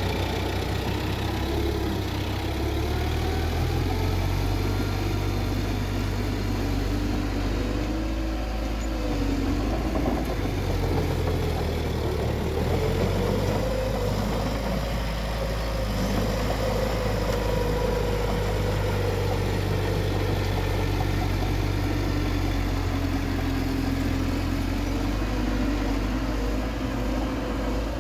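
Bulldozer's diesel engine running steadily as it works, its pitch drifting up and down and rising a little about halfway through.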